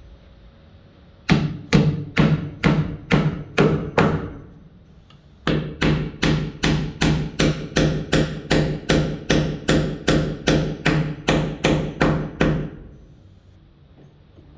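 Hammer driving a nail into wood: a run of about nine steady blows, roughly three a second, then after a short pause a longer run of about twenty, each blow ringing with a low note.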